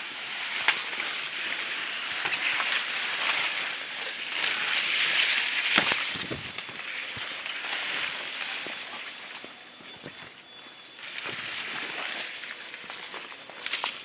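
Rustling with scattered small snaps and crackles, swelling and fading, as people move through leafy undergrowth handling a mist net.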